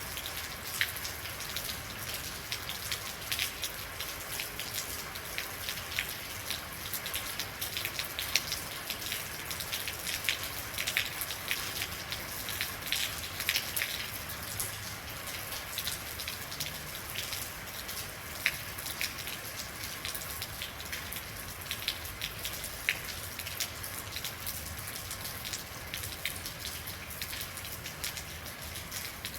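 Real rain falling steadily: a continuous hiss with many individual drops ticking sharply and irregularly close by.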